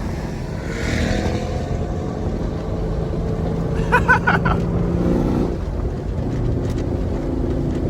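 Chevrolet Camaro SS 1LE's V8, fitted with long-tube headers and an aftermarket exhaust, running at low speed with a steady low drone and a slight rise in pitch about five seconds in. A brief voice about four seconds in.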